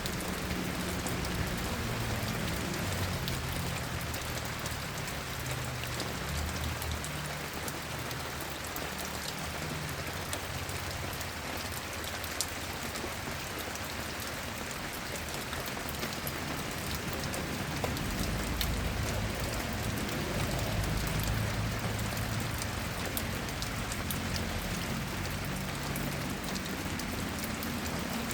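Steady rain falling, with many single drops ticking. A low rumble comes and goes and grows stronger about two thirds of the way through.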